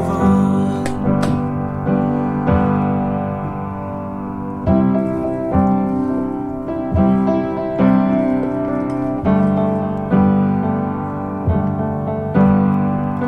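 Background music: an instrumental piano passage, with notes and chords struck about once a second and left ringing.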